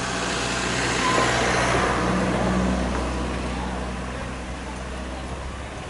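Passenger train running past, a rushing rumble that swells about a second in and then slowly fades as it moves away.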